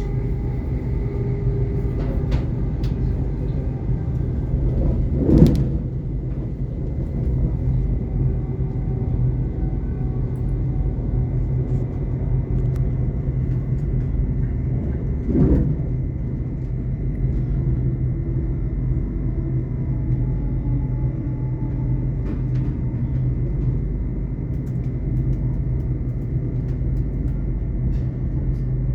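Class 800 IET train heard from inside the passenger saloon while running: a steady low rumble with a thin, steady high whine, and two brief louder swells about five seconds in and again about ten seconds later.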